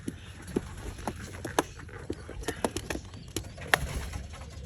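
Footsteps at a walking pace, about two sharp steps a second, as a person walks carrying a basket.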